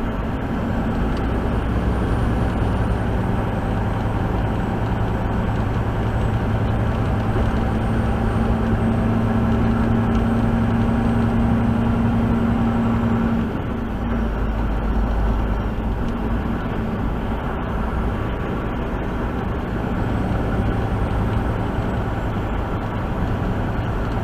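Steady engine and road drone inside a truck cab while driving, with a low humming tone that drops out about halfway through, followed by a brief swell of deep rumble.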